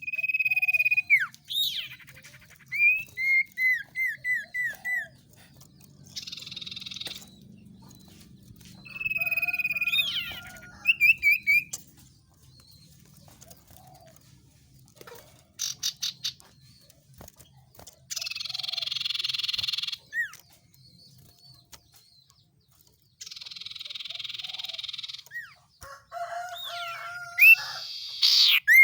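Small songbirds calling, as on a bird-lure recording for species such as the common iora (cipoh): clear whistled notes that slide downward, a quick run of about six short notes, and several harsh rasping calls of a second or two each, with gaps between.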